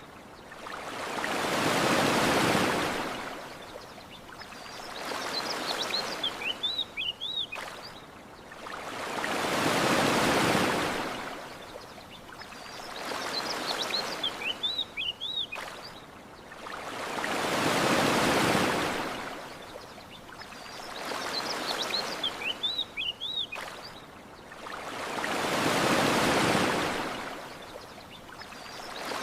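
Gentle ocean waves washing onto a beach, swelling and receding about every four seconds with a bigger wave every eight seconds or so. Small birds chirp in quick little series between the waves.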